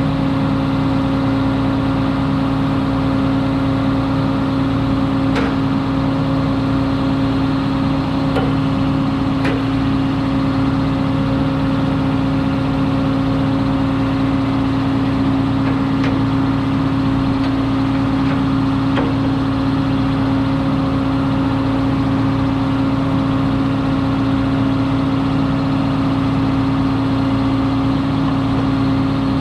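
Combine harvester's diesel engine running steadily with a strong even hum, and a few faint clicks about a third and two thirds of the way through.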